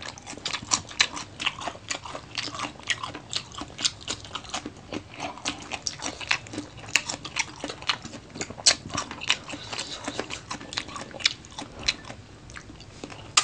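Close-up chewing and crunching of crispy fried adobo chicken feet: a dense run of crisp clicks, several a second, thinning out near the end.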